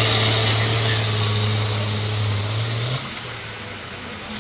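Competition tractor-pulling machine's engine running hard under load, a steady drone that fades gradually and drops away abruptly about three seconds in.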